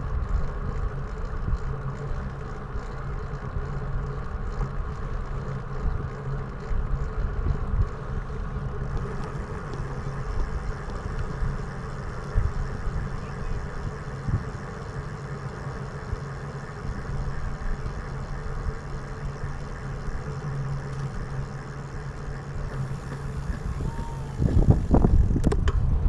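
Wind rushing over an action camera's microphone while riding, over a steady low hum, with a louder gust of rumble near the end.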